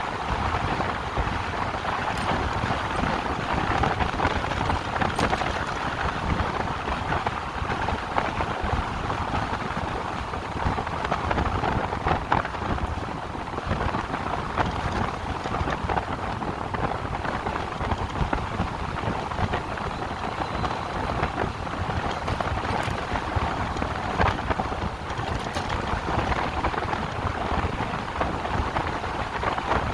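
Steady rush of wind and tyre noise from an electric motorcycle ridden at about 50 mph.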